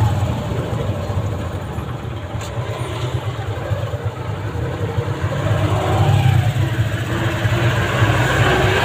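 Motorcycle engine of a passenger tricycle running steadily, heard from inside the sidecar, over the noise of street traffic; it grows louder about two-thirds of the way through.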